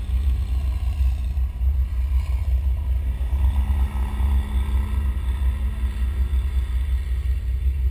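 Car engine idling, a steady, deep, pulsing low rumble. About three seconds in, a second engine's drone rises and then fades as a telehandler drives past.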